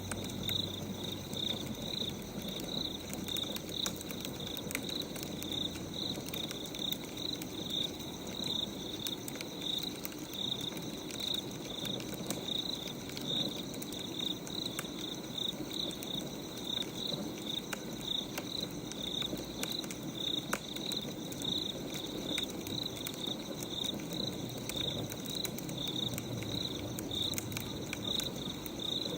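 Crickets chirping steadily, about three chirps a second, with scattered light crackles of a burning wood fire underneath.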